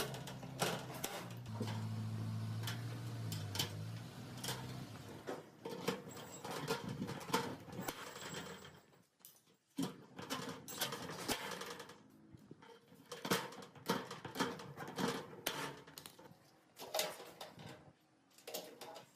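Irregular clinks and knocks of hand work with tools on metal parts, with a low steady hum under them for the first four seconds or so.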